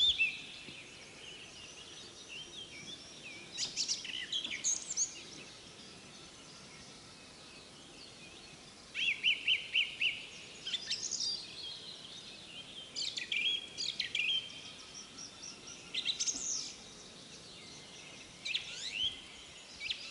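Songbirds singing in short separate phrases, with a fast run of repeated notes about nine seconds in and another near fourteen seconds.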